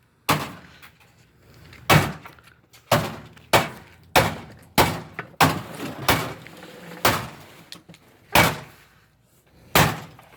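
Repeated heavy blows smashing a Whirlpool Duet front-load washing machine, its plastic panels cracking and banging under each hit. About eleven sharp strikes at an uneven pace, some less than a second apart and others with longer gaps.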